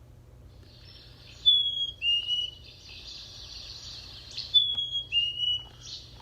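Black-capped chickadee singing its two-note whistled 'fee-bee' song twice, each time a clear higher note followed by a slightly lower one, over faint background chirping.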